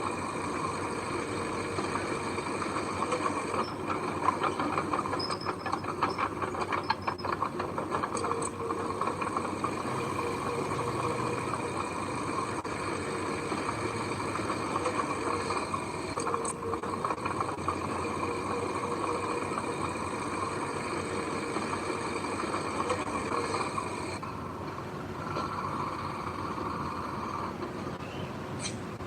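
Heavy machine's engine running steadily, with a run of rattling clanks from about four to eight seconds in.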